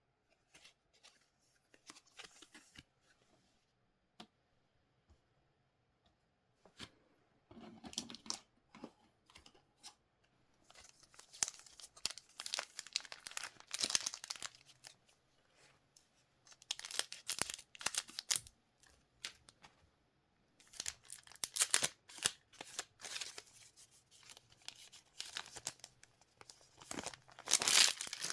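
Trading card pack wrappers being torn open and crinkled by hand in repeated bursts of tearing and rustling. It is faint at first and louder through the second half.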